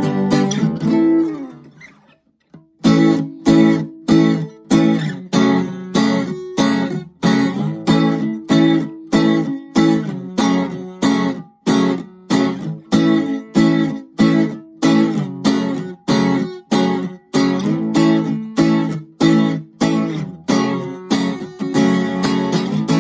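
Kramer Ferrington KFS-2 thin-body acoustic-electric guitar being strummed: chords in a steady rhythm of about two strokes a second. The first chord rings out and fades about two seconds in, and the strumming then starts again.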